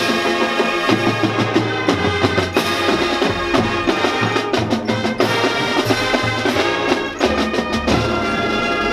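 Marching band playing: brass holding and moving through chords over a low brass bass line, with drumline percussion and bass drum strokes.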